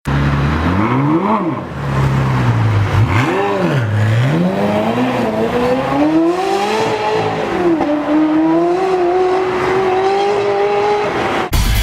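Ferrari F360 Modena's V8 through an aftermarket cat-back exhaust: two quick throttle blips from idle, then a long pull with the pitch climbing. The pitch dips briefly about seven and a half seconds in, as at a gear change, then rises steadily again until it cuts off near the end.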